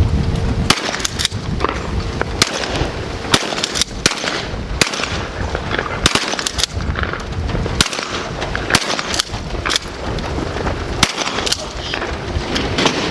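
A series of sharp clicks and knocks at irregular intervals, about one a second, over a steady rumble of wind or handling noise.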